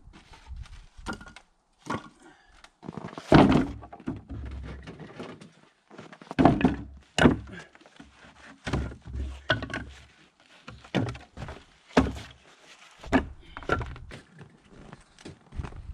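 Irregular wooden thunks and knocks, several a few seconds apart: pieces of firewood being handled and dropped onto a pile or load.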